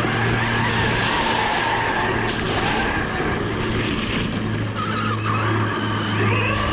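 A radio-controlled car's electric motor whines up and down in pitch with the throttle as the car is driven hard over loose ground, over a steady low hum.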